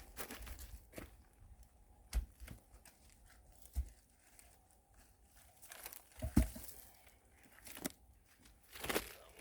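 Rustling and crunching handling noise with a few sharp, dull knocks spread through it: someone rummaging among and moving wood and other loose material.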